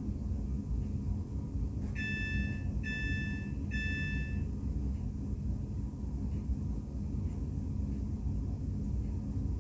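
Steady low hum and rumble inside a Class 350 electric multiple unit carriage, with three even electronic beeps about two seconds in.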